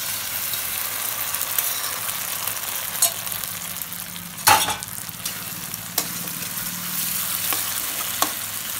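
A sauce of soy sauce, maida and cornflour slurry sizzling in a hot wok of onions and capsicum while a spatula stirs and scrapes through it. A few sharp knocks of the spatula on the wok, the loudest about halfway through.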